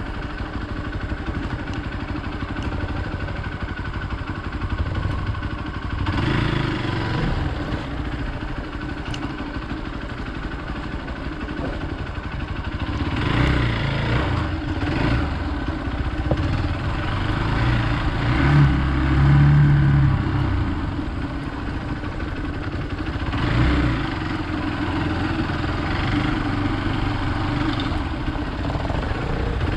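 Hero Xpulse 200 motorcycle's single-cylinder engine running over rough ground, the throttle opened and eased off repeatedly, with louder surges about six, thirteen to fifteen, and nineteen seconds in.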